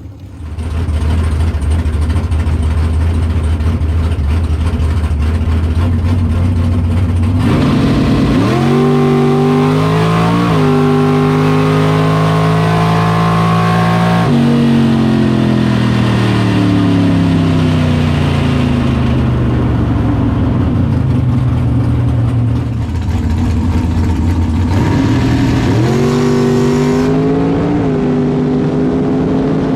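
Drag race car engine idling with a steady low note, then launching at full throttle about seven seconds in, its pitch climbing with two quick gear shifts. About fourteen seconds in it lifts off and the pitch falls slowly as the car slows. Near the end a second hard acceleration with quick shifts.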